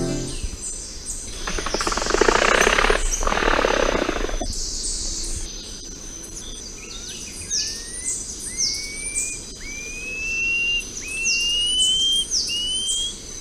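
Forest birdsong: a bird repeats a rising whistled note about once a second, each note climbing a little higher than the last, over a steady high insect whine. Before the whistles, a loud harsh rasping noise lasts about three seconds.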